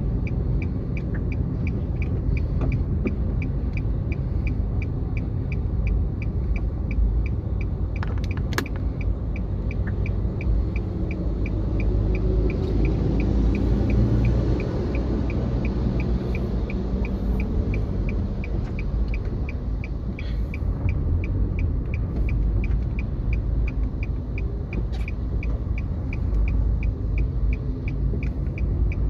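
Motor vehicle running, a steady low rumble, with an even high ticking about twice a second over it and a sharp click near the 8-second mark.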